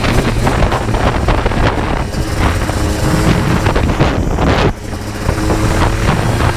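Yamaha Blaster 200's single-cylinder two-stroke engine running under way, with wind blowing across the microphone. The engine note dips briefly about three-quarters of the way in, then carries on steadily.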